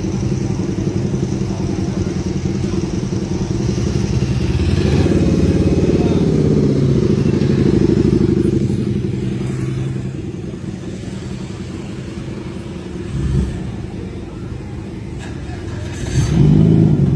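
Engine of a modified car idling through its exhaust, revved up and held about four seconds in, then settling back. A short blip of the throttle comes near the middle and another rev near the end.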